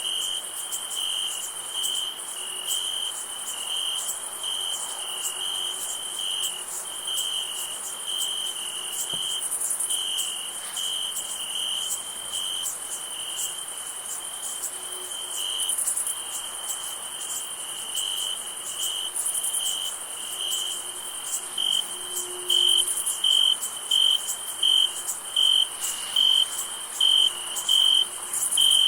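Crickets chirping at night: a regular pulsed chirp a little over once a second, growing noticeably louder near the end, over a steady high-pitched insect trill.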